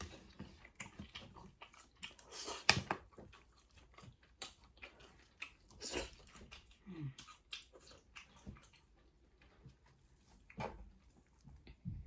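A person chewing a mouthful of rice and chicken close to the microphone: wet smacking and clicking mouth sounds, with the loudest smack a little under three seconds in.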